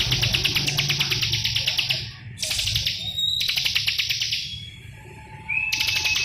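Bar-winged prinia (ciblek) singing loud, rapid rattling trills, several phrases broken by short pauses, with thin whistled notes between them.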